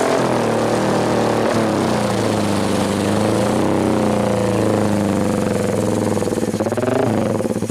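Fuel-injected Suzuki Satria FU's single-cylinder four-stroke engine running through a Tetenk Muffler Pro-MP racing exhaust, its pitch dropping at the start and then rising and falling several times under light throttle blips.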